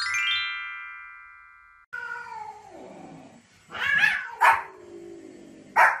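A short rising sweep into a bright ringing chime that fades over about two seconds. Then a small dog barks three short times, with drawn-out falling cries before and between the barks.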